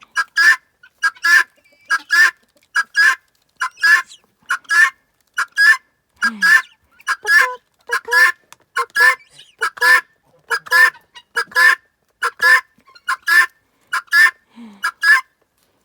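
Female helmeted guinea fowl giving her harsh two-note 'buck-wheat' call over and over, about once a second, a steady chattering run of calls.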